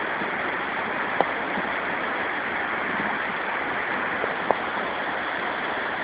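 Steady rush of falling water from a waterfall, with a few brief sharp drip-like clicks about a second in and again near the middle.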